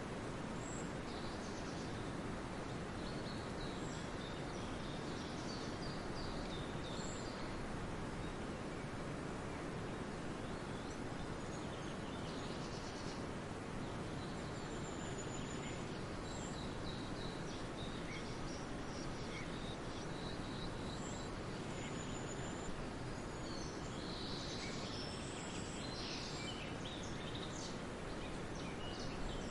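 Steady background ambience noise with scattered faint, high bird chirps, more frequent near the end.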